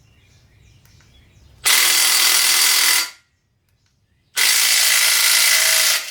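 Handheld power tool running in two bursts of about a second and a half each, with a quiet gap between them, spinning out the torqued main bearing cap bolts so the cap can come off.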